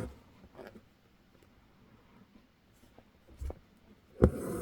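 Hand embroidery with stranded floss: a few faint ticks of the needle through fabric stretched in a hoop, then a sharp tap near the end followed by the scratchy rasp of thread being pulled through the fabric.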